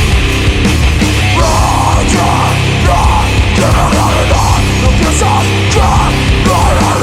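Heavy metal band playing live: loud distorted guitars, bass and drums, steady and dense throughout.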